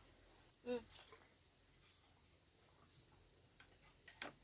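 Faint insects trilling: a steady high-pitched drone with short chirps repeating about once a second. A brief click near the end.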